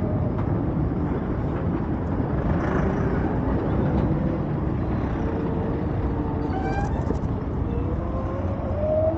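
Steady wind rush and road noise from riding an Ather 450X electric scooter, with faint thin whines that glide in pitch, one rising steadily near the end.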